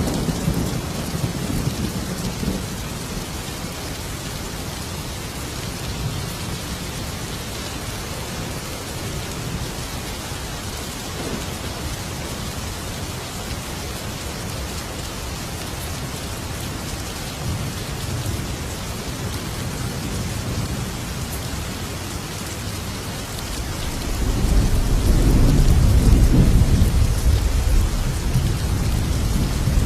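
Thunderstorm: steady heavy rain hissing on surfaces, with low thunder rumbling at the start and a louder, longer roll of thunder building from about four-fifths of the way in.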